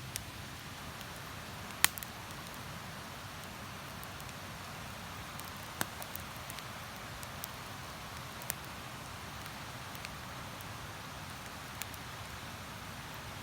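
Wood campfire crackling, with a handful of sharp, irregular pops, over the steady rush of river water.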